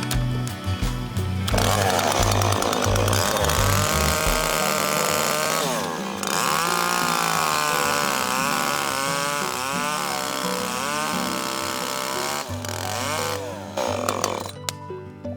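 Small two-stroke engine of a handheld power tool running under load, its speed rising and falling. It starts about a second and a half in and stops near the end. Background music plays throughout.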